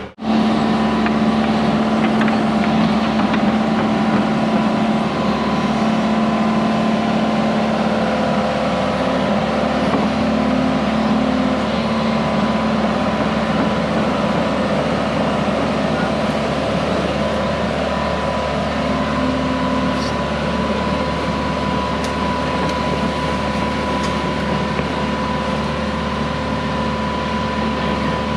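Heavy equipment's engine running steadily under load while pulling a water-line plow through the ground, a constant drone that holds one pitch.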